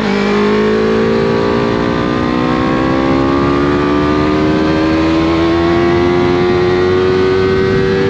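Yamaha MT-03 motorcycle with a Scorpion full-system exhaust, its engine dropping in pitch at the start and then pulling steadily, rising slowly in pitch as it accelerates.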